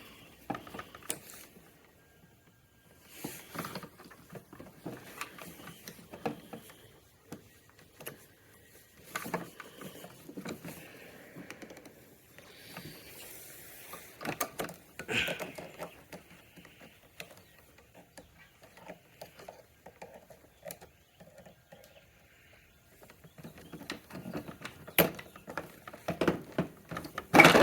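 Scattered clicks, light knocks and rustling of hands working parts by hand on a scooter's brake, in uneven bursts with quiet gaps between, and a sharper click near the end.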